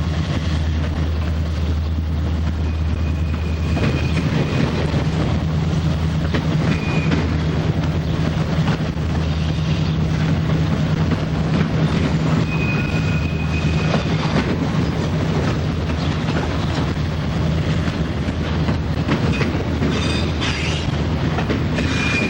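Canadian National freight train rolling past with a steady rumble and clatter of wheels on the rails. A few brief high-pitched wheel squeals come and go. The sound cuts off suddenly at the end.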